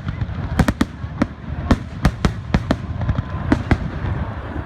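Fireworks going off: an irregular string of sharp bangs, roughly three a second, over a steady low rumble.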